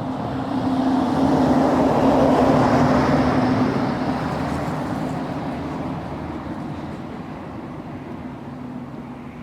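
A passing road vehicle, swelling to its loudest about two seconds in and slowly fading away, over a steady low hum.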